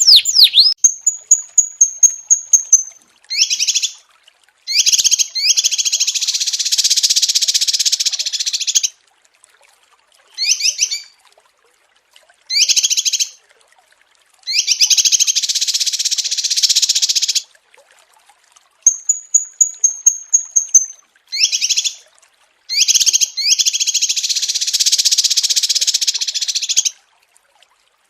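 Small songbird singing: a held high whistle, short bursts of quick notes and long dense trills of rapid chirps, with the same sequence of phrases coming round twice.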